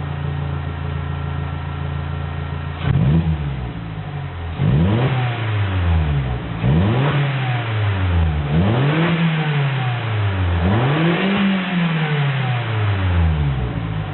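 Opel Astra H 1.4 four-cylinder petrol engine through an Asso aftermarket exhaust. It idles, gets one quick blip of the throttle about three seconds in, then is revved up and let fall back four times in a row before settling toward idle near the end.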